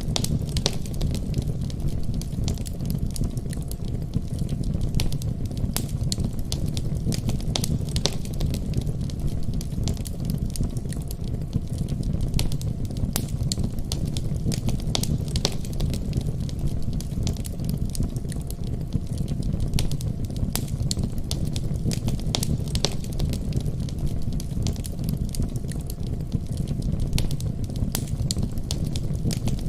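Wood fire burning in a fireplace: a steady low rumble of flame with irregular sharp crackles and pops throughout.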